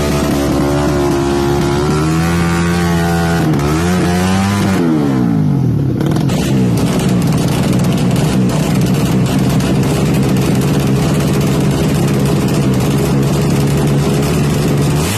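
Drag-racing motorcycle engine revving and held at high revs. About five seconds in the revs fall away sharply, then hold steady again.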